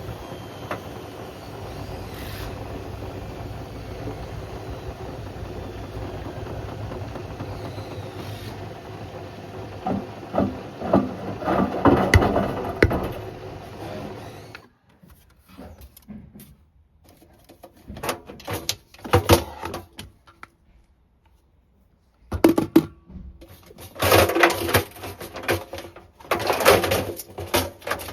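Beko WM74135 washing machine running with a hard load of a toaster and a kettle: a steady hum with knocking for about half the time, which then cuts off suddenly and gives way to irregular clattering knocks and rattles with short quiet gaps.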